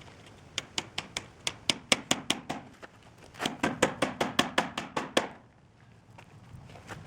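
Hammer blows in two quick runs of about ten strikes each, about five a second, with a short pause between.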